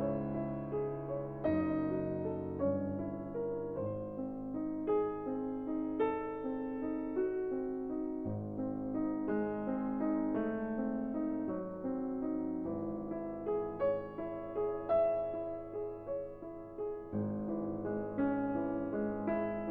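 Soft background piano music: slow, sustained notes and chords.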